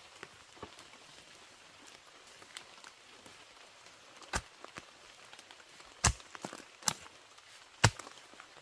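Scattered sharp knocks and clicks at irregular intervals over a low background hiss, the loudest about six and eight seconds in.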